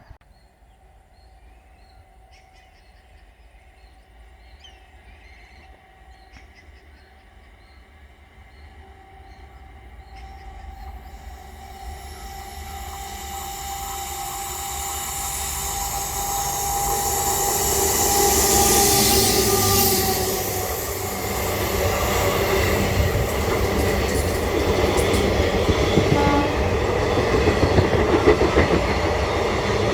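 A passenger train approaching and passing close by: faint at first, growing steadily louder over about ten seconds, then the rushing noise of the coaches with wheels clattering over the rail joints.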